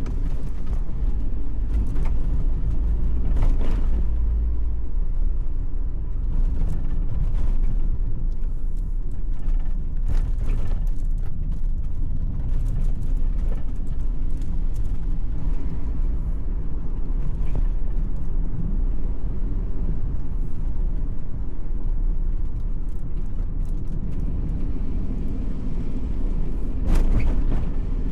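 Steady low vehicle rumble with scattered knocks and rattles.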